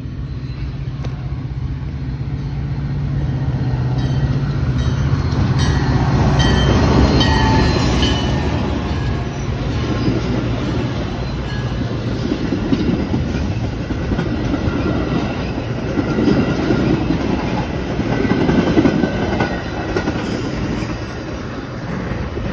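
Metra diesel commuter train passing close by: the locomotive's engine hum builds to its loudest about seven seconds in, then the bi-level passenger coaches rumble past with wheels clacking on the rails, easing off near the end as the train moves away.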